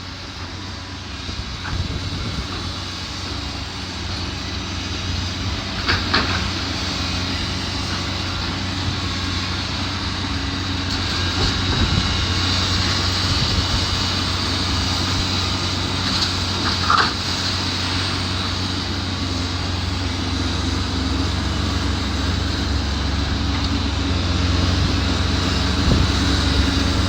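Demolition excavator's diesel engine running steadily, with a few short knocks and clanks of debris being handled. It grows a little louder about ten seconds in.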